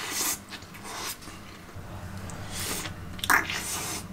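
A person biting into a cheeseburger and chewing it: a handful of short, irregular soft mouth and chewing noises.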